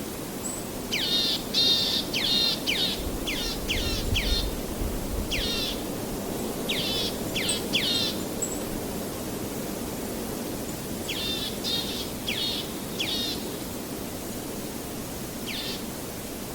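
A songbird calling in quick series of short down-slurred chirps, in several bursts with pauses between, over a steady rushing background of ambient nature noise.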